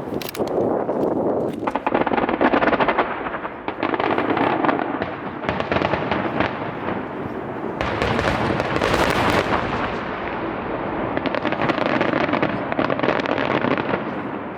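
Aerial fireworks bursting overhead: dense crackling from the shells' stars in repeated waves, with sharp bangs at the start.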